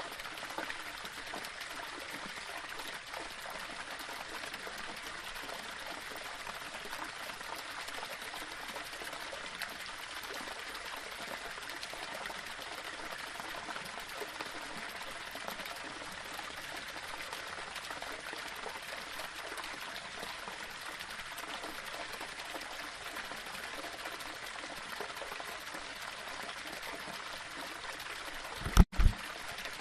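Small waterfall splashing and running over stones, a steady rush of water. Near the end the sound cuts out for an instant with two short, loud low thumps.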